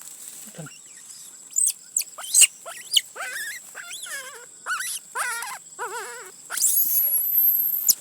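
An animal's calls: a run of short cries and squeaks, several with a wavering pitch, then a long, very high-pitched squeal near the end.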